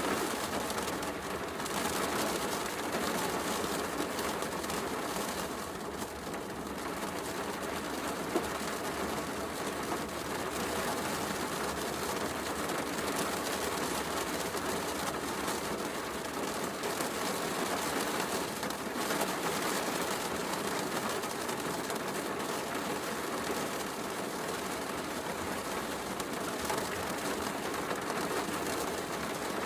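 Heavy rain falling steadily, mixed with a fireplace crackling, with small pops here and there and one sharper pop about eight seconds in.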